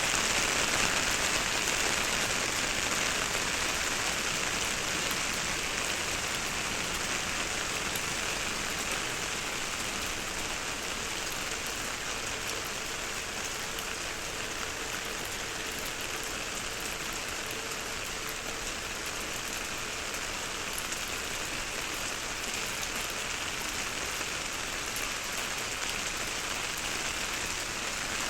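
Heavy rain pattering on an umbrella held overhead and on the wet street around it, a dense steady hiss, a little louder in the first few seconds. It is recorded with binaural in-ear microphones.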